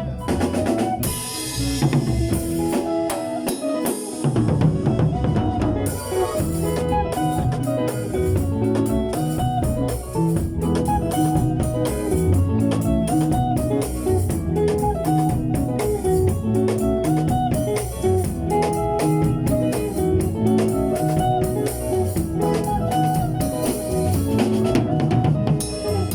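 Drum kit playing a steady, driving beat with bass drum, snare and rimshots over a band backing track.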